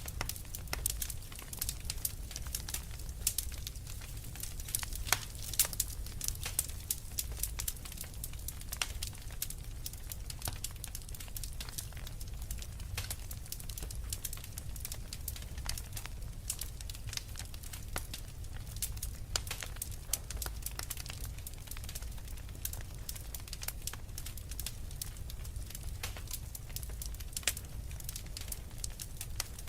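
Log fire crackling in a fireplace: many sharp pops and snaps, most frequent in the first half, over a steady low rumble of the burning.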